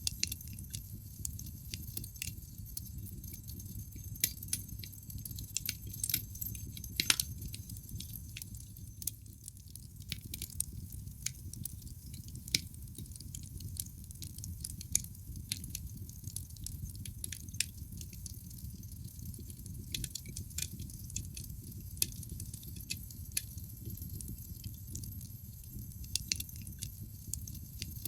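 Wood fire burning in a fireplace: irregular sharp crackles and pops from the burning logs over a steady low rumble of the flames, with the loudest pops clustered about a quarter of the way in.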